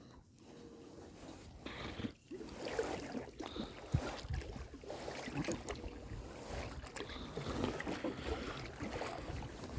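Irregular knocking, rubbing and clicking of a phone mount on a kayak being handled and adjusted, close to the phone's microphone, with a steady wash of noise behind it.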